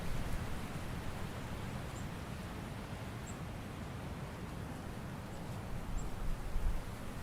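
Autumn woodland ambience: a steady rustle of wind through leaves, with a low rumble that swells briefly near the end. A few faint, short, high chirps of a small bird sound now and then.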